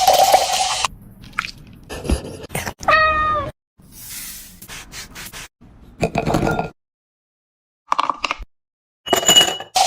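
A pet animal's short meow-like cry, a single pitched call about three seconds in, among several brief noises from separate clips.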